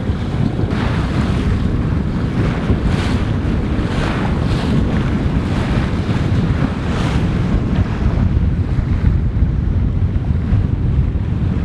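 Strong wind buffeting the microphone with a steady low rumble, over waves splashing, with a series of hissing surges of water in the first several seconds.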